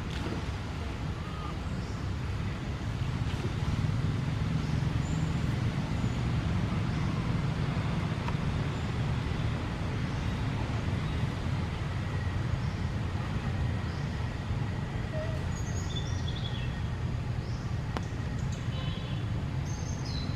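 Steady low outdoor rumble with no clear tones, with a few faint, short high chirps over it near the end.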